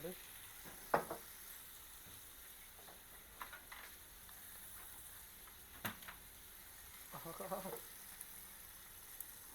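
A sautéed curry base frying in oil in a pan, a steady sizzle while it is stirred, with a sharp knock about a second in and another near six seconds. A brief voice comes in around seven seconds.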